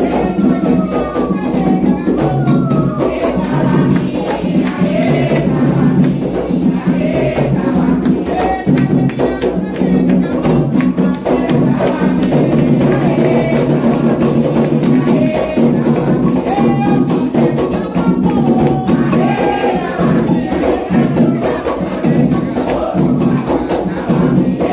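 Candomblé ritual music: atabaque hand drums play a driving rhythm for Oxossi while a group of voices sings a chant over them.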